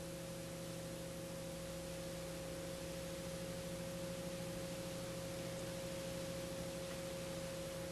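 TPE331 turboprop engine running steadily at a set power during a ground run-up, heard as a faint, unchanging hum with a steady mid-pitched tone.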